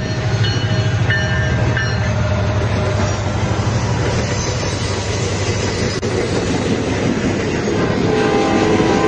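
Diesel train sound: a steady low engine drone with rolling wheel noise, and a horn sounding about eight seconds in.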